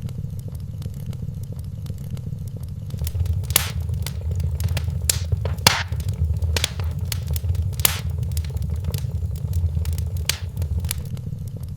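Wood fire in a fireplace crackling over a low steady rumble, with a run of sharp pops from about three seconds in that thins out near the end.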